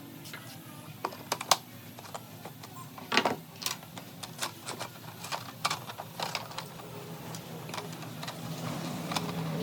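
Irregular sharp clicks and light knocks, several a second, loudest about one and a half and three seconds in, over a faint low hum.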